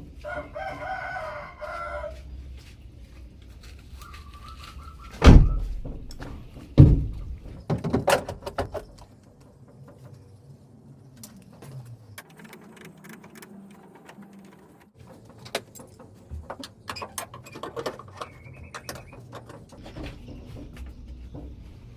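A rooster crows once at the start, a call of about two seconds. Two loud knocks follow about five and seven seconds in, with scattered clinks and taps through the rest.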